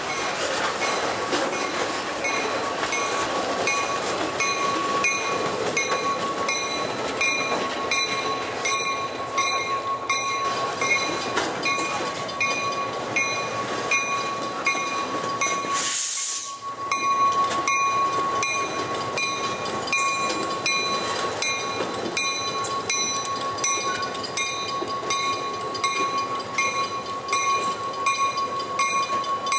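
A slow freight train of loaded flatcars with an EMD SW1200 diesel switcher rolls past. Its steel wheels click over the rail joints under a steady high tone, with a brief dip about halfway through.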